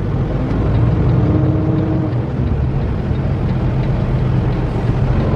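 Semi-truck's diesel engine running with a steady low rumble, heard from inside the cab as the truck waits in tight city traffic.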